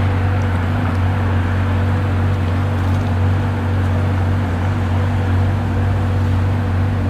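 Ferrari 458's V8 idling steadily through an aftermarket exhaust, with a deep, even hum and no revs, as the engine warms up.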